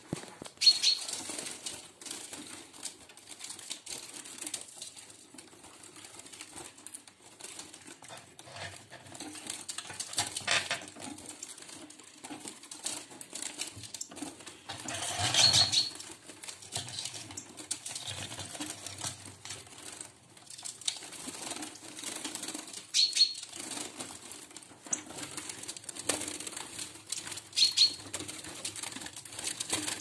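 Small caged birds fluttering, with a few short, high chirps scattered through and rustling in between.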